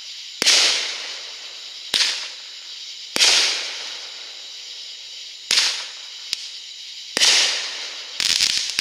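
Aerial fireworks bursting: about six sharp bangs at irregular intervals, a second or two apart, each trailing off in a fading hiss, with a smaller crack between the last few.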